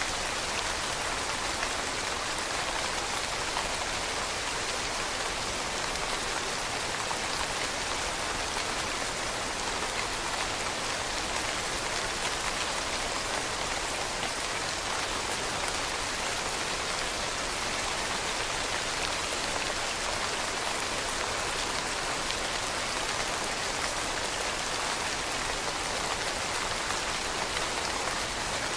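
Steady rain falling on leaves, a dense even patter of many small drop hits without let-up.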